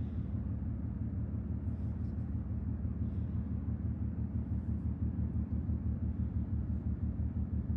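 Steady low rumble of a moving road vehicle heard from inside the cabin, with a few faint ticks.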